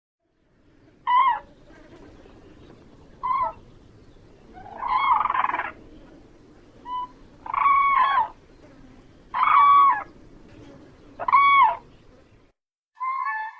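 Common crane calling: six loud calls, each under a second long, spaced about two seconds apart, over a faint low background hiss that drops out near the end.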